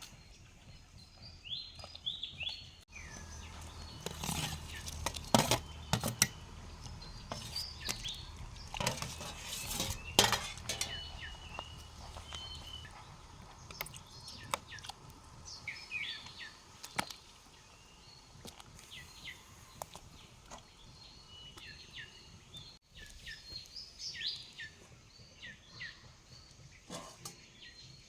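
Kitchen utensils and dishes clinking and knocking during cooking, loudest and busiest in the first half, with small birds chirping repeatedly throughout.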